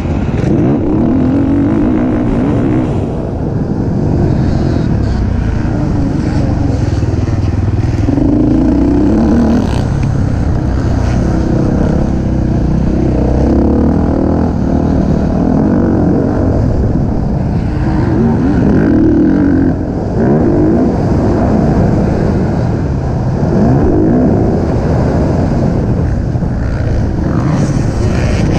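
Race car engine running hard under load, its revs climbing and falling again and again, with two brief dips in level.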